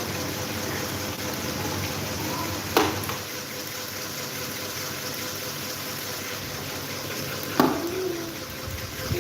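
Electric table fan running with a steady rushing whoosh of air and a faint motor hum. Two sharp clicks, about 3 seconds in and near the end.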